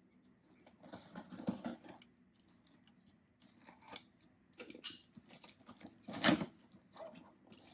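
Packaging being opened by hand: crackling plastic and paper handled in scattered bursts, the loudest crackle about six seconds in.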